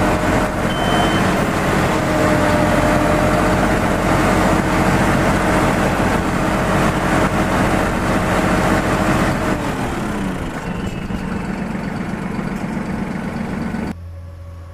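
Massey Ferguson 4608 tractor's diesel engine running steadily under throttle, then its pitch falls and it eases down about two-thirds of the way through; the sound drops away sharply near the end.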